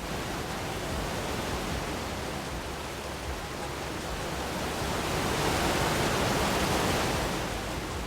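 A steady rushing noise, like rushing water or wind, that starts abruptly, grows louder about five seconds in and eases near the end.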